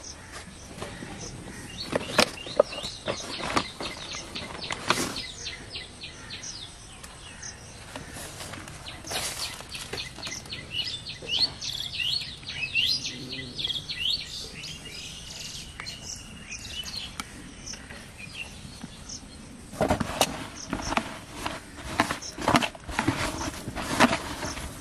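Birds chirping in short repeated calls, with sharp clicks and rustles of objects being handled in the first few seconds and again near the end.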